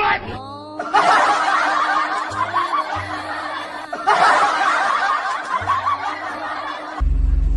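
Recorded audience laughter in two bursts of about three seconds each, after a short falling sound effect. Near the end a loud, steady low rumble starts.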